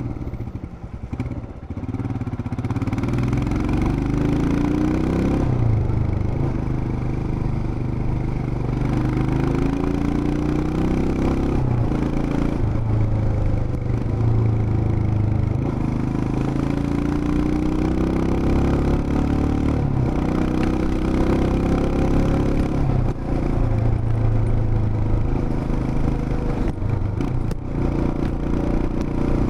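Royal Enfield Himalayan BS6's single-cylinder engine and exhaust on the move. The note climbs repeatedly as it pulls through the gears and drops back between pulls, with a brief lull about a second in.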